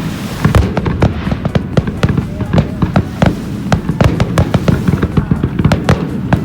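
Fireworks going off in a rapid string of bangs and crackles, several a second, over a continuous low rumble.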